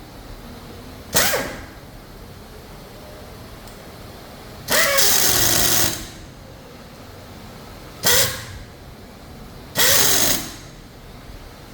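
Four bursts of compressed-air hiss from a pneumatic tool, each starting with a brief falling whine. The second and fourth bursts last about a second, the other two are short, over a steady factory background hum.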